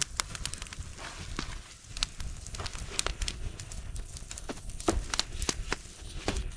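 Bonfire crackling, with irregular sharp pops and snaps over a low steady rumble.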